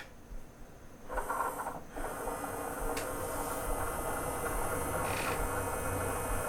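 Sony CDP-CX355 CD changer powering on: a click, then its motor driving the carousel round with a steady mechanical whir from about two seconds in. The carousel is turning and cycling through the discs on its newly replaced belts.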